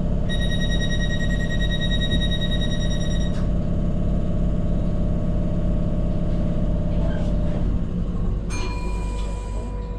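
Tyne & Wear Metro electric train running, with a steady drive hum that changes and eases after about eight seconds. A steady high-pitched tone sounds for about three seconds near the start, and another, lower tone begins near the end.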